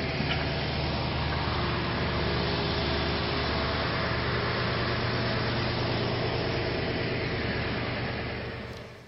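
An engine running steadily under a loud, even noise, then fading away near the end.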